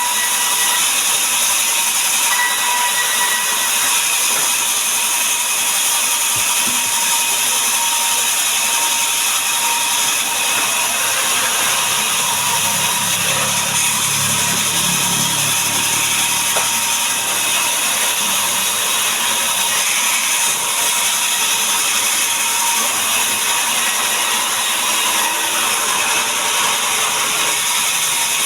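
Power saw running steadily while cutting timber, a loud, even machine noise with a faint whine that holds throughout.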